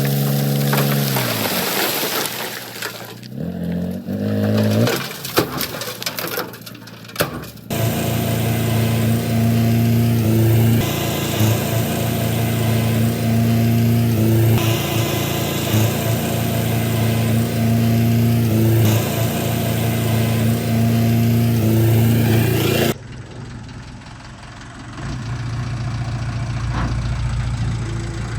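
Mixed machine and knocking sounds, then a loud steady drone with a pattern repeating every few seconds that cuts off abruptly. After that, the Komatsu D20P bulldozer's diesel engine runs low and steady.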